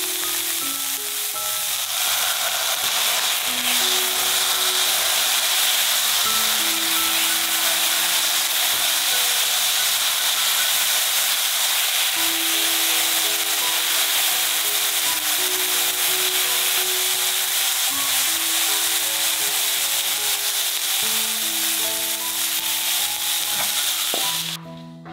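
Shredded cabbage and carrot sizzling steadily as they stir-fry in a hot pan, stirred with a silicone spatula, under soft background music. The sizzle stops suddenly near the end.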